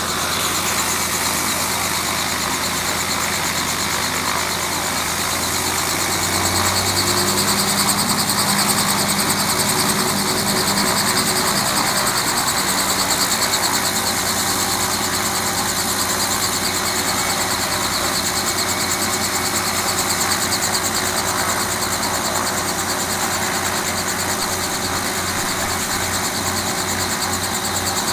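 Helicopter running on the ground, its engine and rotor making a steady loud drone that steps up in pitch about six seconds in, with a regular low pulsing in the later part.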